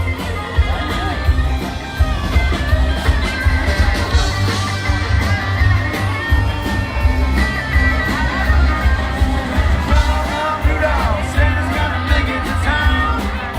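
Live rock band playing amplified music: a singer over electric guitar, a heavy bass line and a steady beat.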